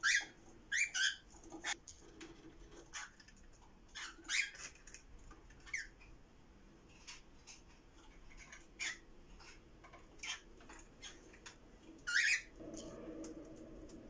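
Cockatiels calling in short, sharp chirps scattered irregularly, the loudest at the start and about twelve seconds in, among small clicks. A low steady hum comes in near the end.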